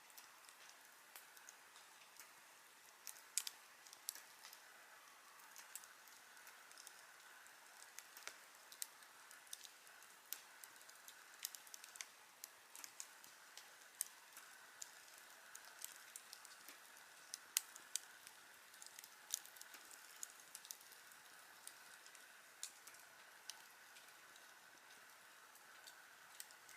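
Wood campfire crackling: irregular sharp pops and snaps over a faint steady hiss.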